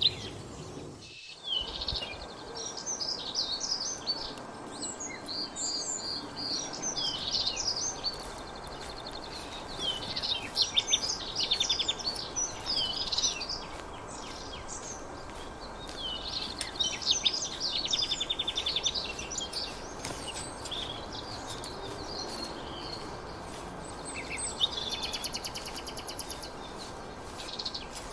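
Several songbirds chirping and singing, with short high notes and quick rattling trills coming and going over a steady background hiss. The sound drops out briefly about a second in.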